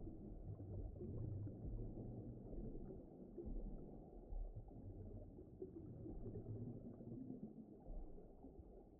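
Low, muffled rumbling ambience with nothing in the upper range, steady but swelling and easing slowly.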